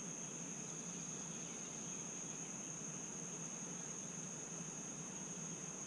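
Insects calling in one continuous, unbroken high-pitched tone that holds steady throughout, with a faint low hum beneath.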